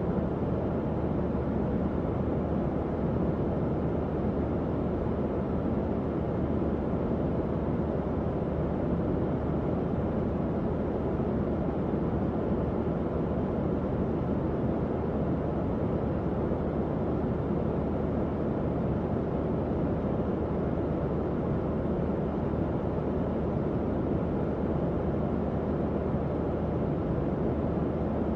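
Tower fan running steadily: an even rush of moving air, strongest in the low and middle range, with a faint motor hum beneath it.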